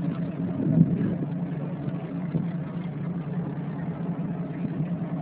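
A boat's engine running steadily under way: a constant low hum.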